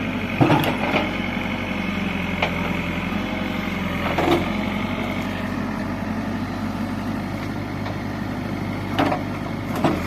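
Diesel engine of a JCB 3DX backhoe loader running at a steady speed, with a few short sharp knocks spread through the stretch.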